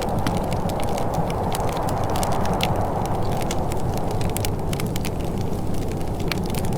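Wood fire crackling in a fireplace: many small, sharp, irregular snaps over a steady low rumble.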